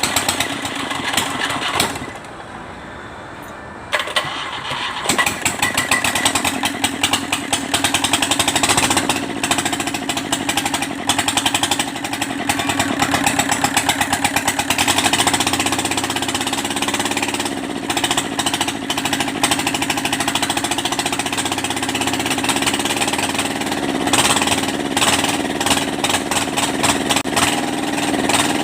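Kubota Z751 two-cylinder diesel engine running with a fast, even clatter. About two seconds in it drops away for about two seconds, then comes back sharply, and later its speed rises and falls a few times.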